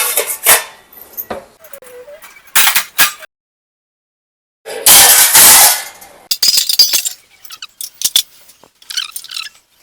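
Dishes and utensils clinking and clattering as they are lifted out of a dishwasher and stacked, with a loud clatter about five seconds in. The sound cuts to silence for about a second just before the clatter.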